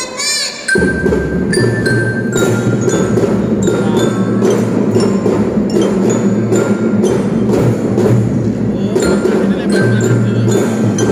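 Kindergarten drum band playing: marching drums beating in a steady, dense rhythm with bright bell-lyra notes ringing over them. The drums come in under a second in.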